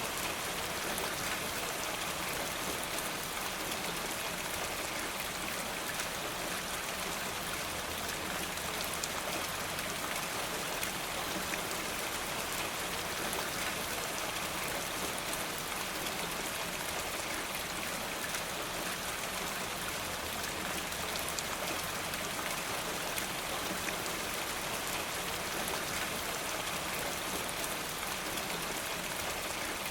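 Steady rain falling, an even hiss flecked with the ticks of scattered drops.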